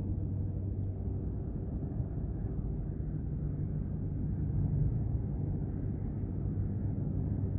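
Airplane flying over, a steady low rumble that swells slightly midway, with a few faint high bird chirps above it.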